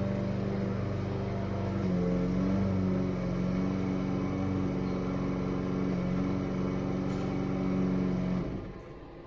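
Small gasoline engine of a lawn mower or string trimmer running at a steady speed, its pitch shifting slightly about two seconds in, then dying away near the end.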